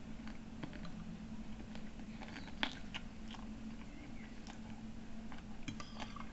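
Close-up chewing and biting of stewed chicken: wet mouth sounds with scattered small clicks, one sharper click about two and a half seconds in, over a steady low hum.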